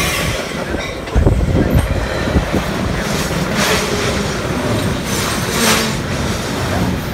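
Train running past on the line: a steady heavy rumble of wheels on rail, loudest from about a second in, with knocks from the wheels over rail joints.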